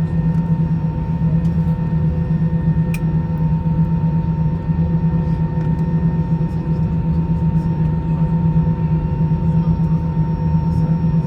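Airbus A321 cabin noise while taxiing with the engines at idle: a steady low drone with a few faint constant tones above it.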